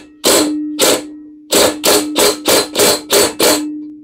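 Impact wrench hammering the 3/4 flywheel nut down onto a small engine's crankshaft: one longer burst, then a quick string of about seven short bursts as the nut is snugged tight.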